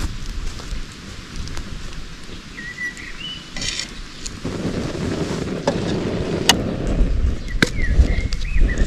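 Outdoor ambience: wind buffeting the microphone, a few short bird chirps about three seconds in and again near the end, and several sharp clicks in the second half.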